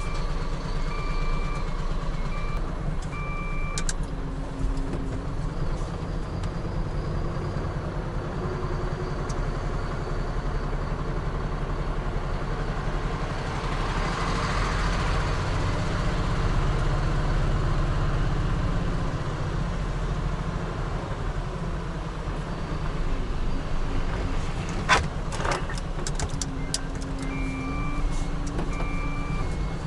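Automatic truck wash machine at work on a large truck: a steady low rumble with a rushing spray-and-brush noise that swells in the middle. A repeating electronic beep sounds in the first few seconds and again near the end, and there is one sharp click late on.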